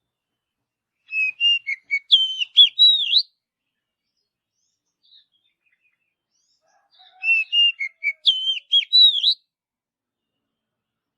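Oriental magpie-robin (kacer) singing: a varied whistled phrase of about two seconds, repeated the same way about six seconds later.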